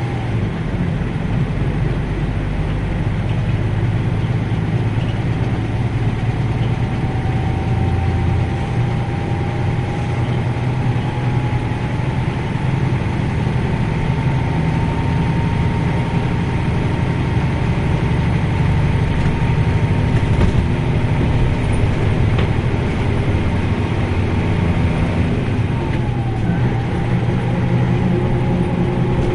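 Nissan Diesel U-UA440LSN route bus heard from inside the cabin while under way. Its diesel engine runs with a heavy rumble, and a faint whine slowly rises in pitch, then drops suddenly near the end.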